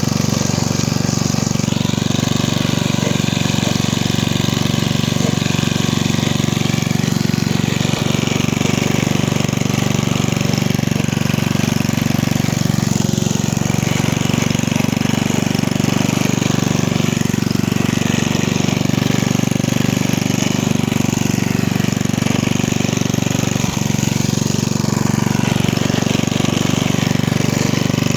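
Lawn mower's 1979 Briggs & Stratton 5 hp I/C 206 cc single-cylinder side-valve engine running at a steady speed.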